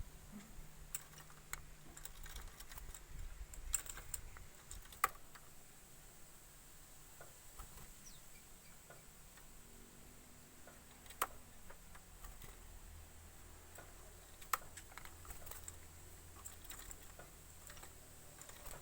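Faint scattered light clicks and taps, with a few sharper ticks, from a small caged bird hopping and pecking about.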